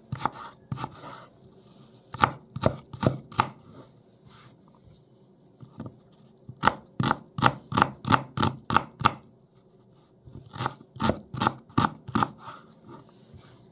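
Kitchen knife chopping on a cutting board: three runs of quick, even strokes at about three a second, with short pauses between them.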